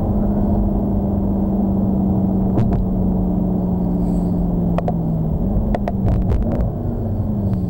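Mercedes-Benz C63 AMG's V8 heard from inside the cabin as the car slows: a steady engine hum over road rumble, its pitch slowly sinking, then stepping up briefly about five and a half seconds in, as on a downshift, before falling again. A few sharp clicks sound about two and a half seconds in and around six seconds.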